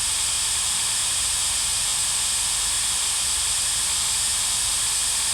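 Steady hiss of the recording's own background noise, brightest high up over a faint low rumble, unchanging throughout.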